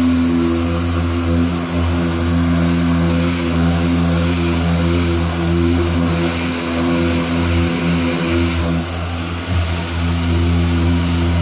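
A workshop machine running steadily: a low hum with a stack of overtones and a faint high whine.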